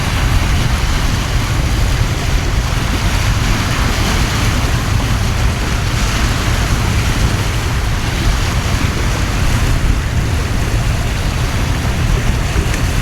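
Heavy torrential rain and wind in a storm: a steady, loud hiss of downpour with a low rumble of wind buffeting the microphone.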